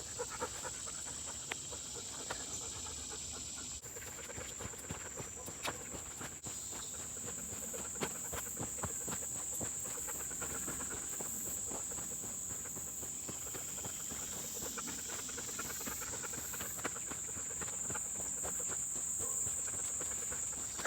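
Steady high-pitched insect chorus droning in the woods, with the uneven crunch of footsteps along a muddy, leafy trail.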